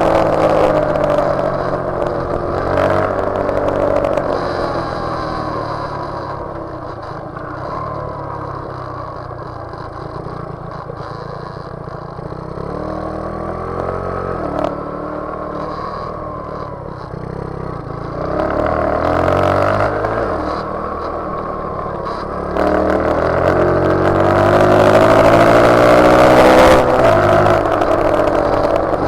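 Motorcycle engine running under way, its pitch rising and falling as it revs and eases off through the gears. It runs quieter through the middle stretch, then gets louder and pulls hard again in the last several seconds.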